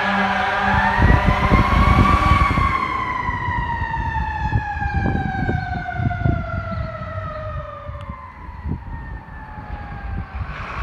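Siren of a responding fire apparatus wailing: one rise in pitch, then a long, slow fall as it fades away. The heavy vehicle's rumble is loudest about a second in, and another sound starts near the end.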